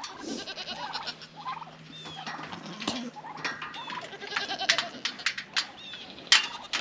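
Goats bleating now and then for their breakfast, with scattered clicks and knocks from handling around the pens; the sharpest knock comes near the end.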